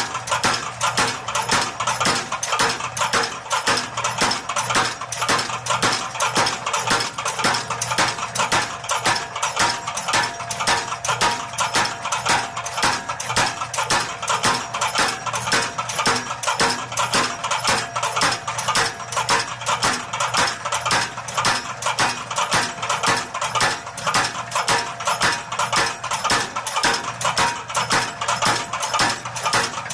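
A motor-driven power hammer running and striking hot steel bar stock in a fast, even rhythm of blows, drawing the bar out longer, over the steady hum of its motor.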